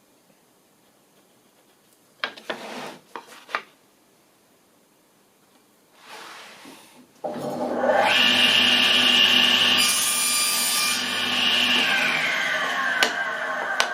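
A few short handling knocks, then an electric power tool starts, runs at full speed and cuts briefly into timber, and winds down near the end, its pitch falling as the motor coasts to a stop.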